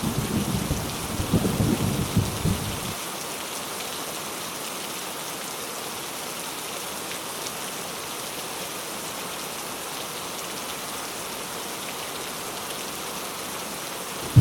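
Heavy rain falling in a steady hiss. Thunder rumbles low under it for the first three seconds, then cuts off suddenly, leaving only the rain.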